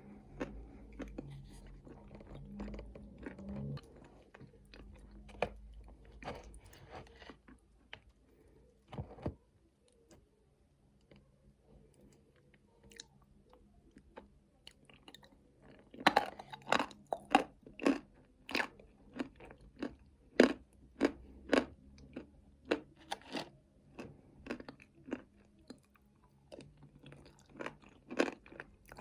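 Close-up chewing and crunching of nuts with chocolate paste: soft, irregular chewing at first, then from about halfway a run of sharp, loud crunches, roughly two a second.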